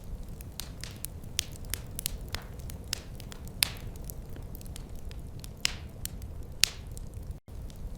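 Wood fire crackling in a fireplace: irregular sharp pops and a few louder snaps over a steady low rumble of the flames. The sound cuts out for an instant near the end.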